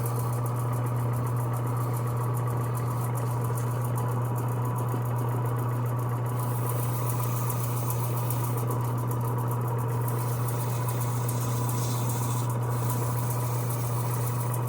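Electric sander running steadily with a constant motor hum, sanding old paint off a ride-on train's pedal handle.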